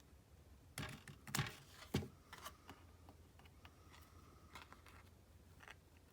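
A handful of sharp clicks and knocks, bunched in the first two seconds, then a few lighter ticks, from craft tools and paper being handled on a work table.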